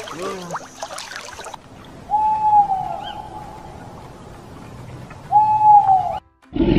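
Owl hooting: two long hoots about three seconds apart, each holding one pitch and dipping at the end.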